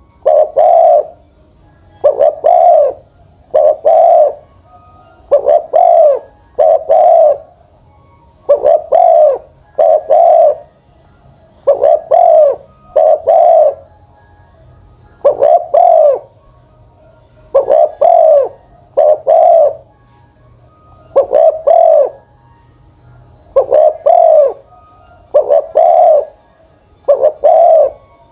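Spotted dove cooing, repeating its short coo phrase about every two seconds.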